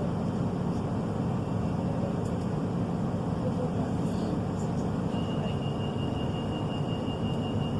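Inside a Class 153 diesel railcar: its underfloor Cummins diesel engine runs steadily under a constant low rumble. About five seconds in, a thin, high, rapidly pulsing tone starts and carries on.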